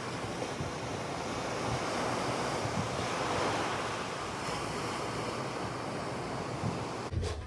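Steady rushing noise, even and unbroken, with a short low knock near the end.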